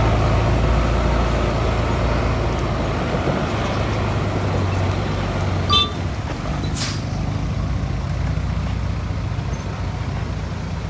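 Heavy diesel engines of earthmoving machinery running steadily under load, easing off a little about halfway through. A brief high squeak, then a short air hiss just after, of the kind an air brake releases.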